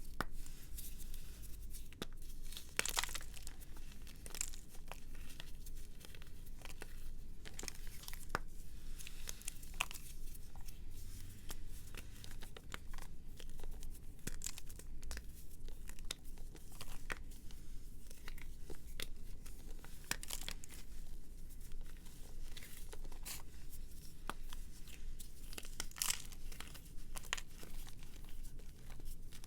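Brittle material being crushed and crumbled at close range: a dense, irregular run of sharp crackles and crunches.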